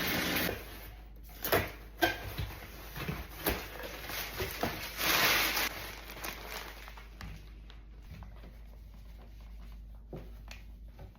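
Clatter and rustling of a hamster cage being cleaned out and refilled: scattered knocks and clicks, with a longer rush about five seconds in that fits bedding shavings being poured. A steady whirring noise cuts off about half a second in.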